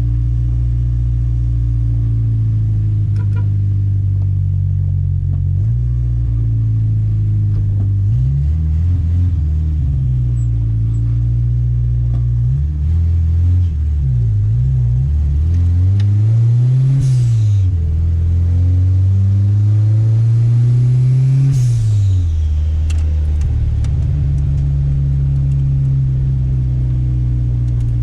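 Turbocharged Chevette engine running, its revs rising and falling several times through the middle, with a short hiss near the top of two of the rises.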